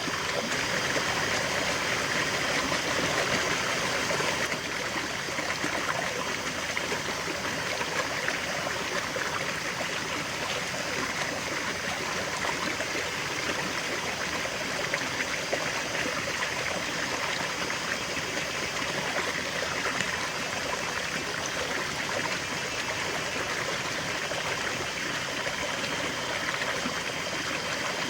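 A river flowing steadily, an even rush of moving water that drops slightly in level about four and a half seconds in.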